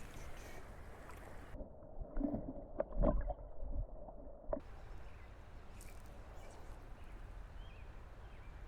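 Creek water running in a steady rush, with a few short knocks about two to three and a half seconds in.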